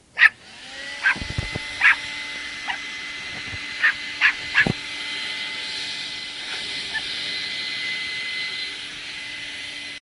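A vacuum cleaner switches on, its motor whine rising and settling into a steady run. A dog barks at it about seven times over the first five seconds, the first bark at the very start being the loudest.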